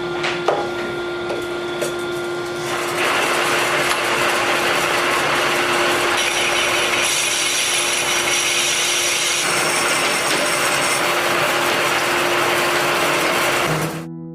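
A power tool running with a steady hum, with a harsh rasping cutting or grinding noise that builds about three seconds in and stays loud until it stops abruptly near the end.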